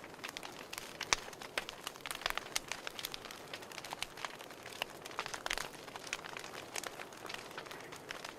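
Campfire crackling: irregular sharp pops and snaps over a soft steady hiss of burning wood.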